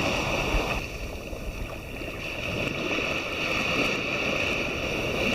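Sea water washing and sloshing in light surf.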